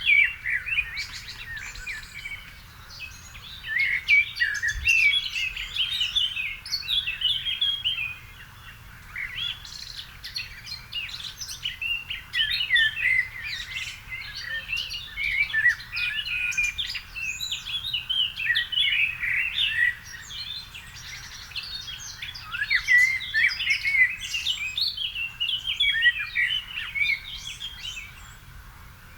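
Songbirds singing in a garden: dense, quick chirping and warbling phrases in bouts, with short lulls about eight and twenty seconds in.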